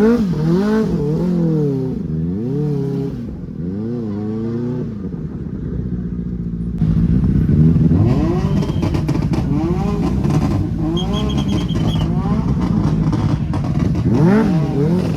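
Motorcycle engines revving, the throttle blipped so the pitch swings up and down again and again.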